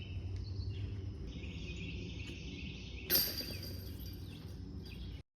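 Outdoor ambience: birds or insects chirping over a steady low rumble. A sudden sharp sound comes about three seconds in, followed by a steady high hiss, and the sound cuts off just before the end.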